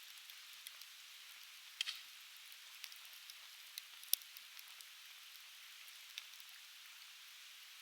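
Softwood campfire crackling, with irregular sharp pops; the loudest come about two seconds in and just after four seconds. Underneath is the steady rush of a river.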